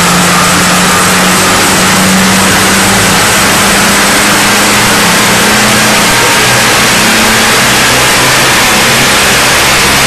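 Mitsubishi Lancer Evolution IX wagon's turbocharged four-cylinder engine running on a chassis dynamometer: loud and fairly steady, its pitch shifting only a little.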